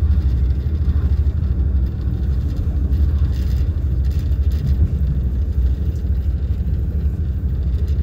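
Train running, a steady low rumble of the moving carriage heard from inside it.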